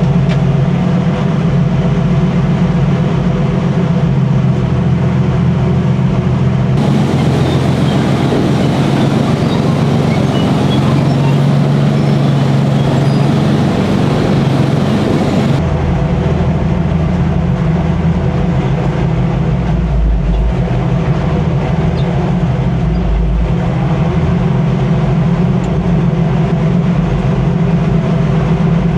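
Cromwell tank's 27-litre Rolls-Royce Meteor V12 petrol engine running steadily and loudly. About 7 s in the sound turns abruptly harsher and hissier, and about 16 s in it switches back.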